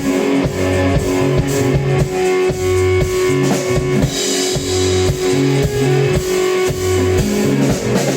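Live rock band playing an instrumental passage: a drum kit keeping a steady beat under a repeating bass line, with an electric guitar holding a long note.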